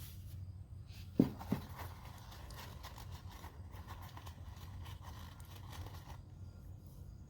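Two quick knocks about a second in, the first louder, as a tool or part is set down or bumped, then faint small handling clicks over a low steady hum.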